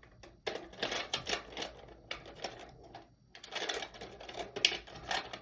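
Rapid, irregular clicking and tapping, with a short break a little after three seconds in.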